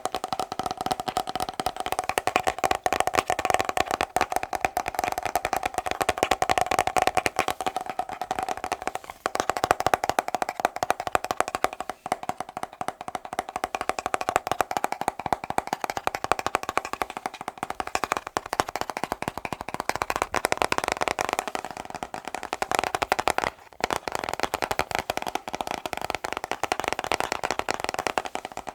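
Fast, continuous tapping on a hard object, with a few brief pauses. Each run of taps carries the same ringing, hollow tone.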